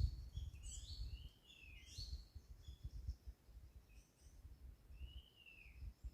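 Several wild birds chirping in quick, overlapping short notes, thick for the first two seconds and then sparser, with one longer arched note about five seconds in. A low, uneven rumble runs underneath.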